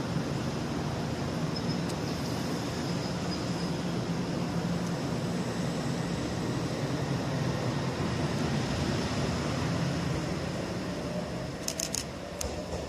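Odakyu electric commuter train running on the line: a steady rumble with a faint high whine. A few sharp clicks come near the end, and then the sound starts to fade.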